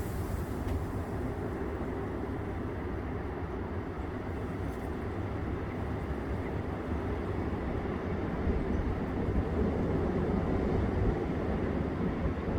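Strong wind blowing and buffeting the microphone: a steady low rushing noise that grows a little louder toward the end.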